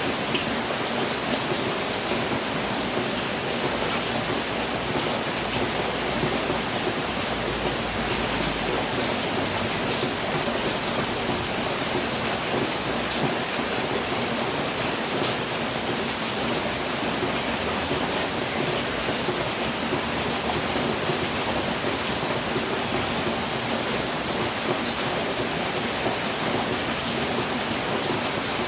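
Steady rain falling on a house roof, an even hiss with no breaks, with a thin high tone running through it and faint chirps every couple of seconds.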